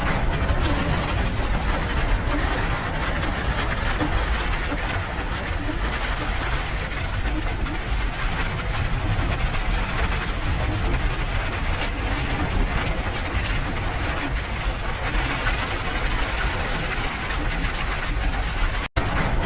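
Steady rain with a low rumble underneath, an even hiss that drops out for an instant near the end.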